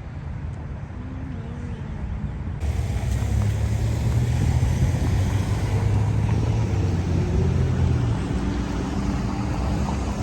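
Street traffic: a steady low rumble of motor vehicles on the road, growing louder about two and a half seconds in.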